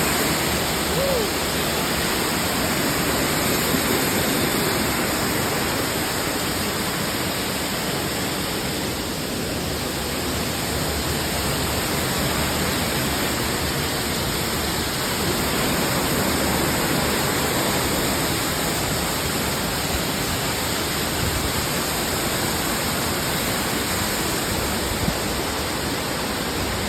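Steady rush of water from a waterfall or mountain stream.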